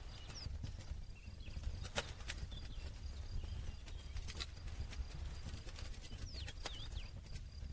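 Wood burning in a campfire, crackling with sharp, irregular snaps and pops over the low, steady rumble of the flames.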